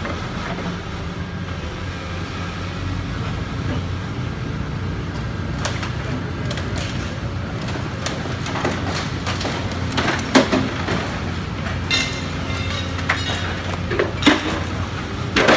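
Demolition machinery running steadily with a low engine hum. From about six seconds in come irregular clanks and crashes as debris and metal are knocked about, the loudest toward the end.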